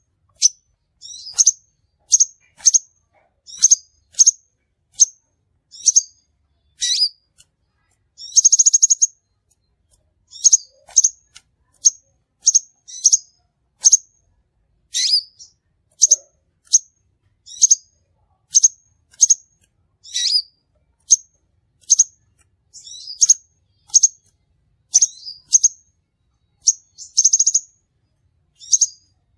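Crimson sunbird calling: a series of short, sharp, high chirps, about one to two a second. A short, rapid trill comes in twice, about eight seconds in and again near the end.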